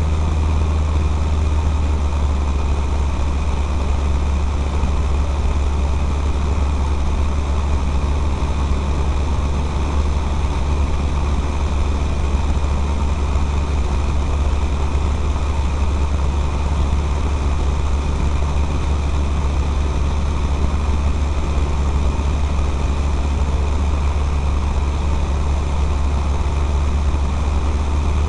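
Cessna 152's four-cylinder Lycoming O-235 engine and propeller droning at steady power in flight: a strong low hum with an even rush of air noise over it, unchanging throughout.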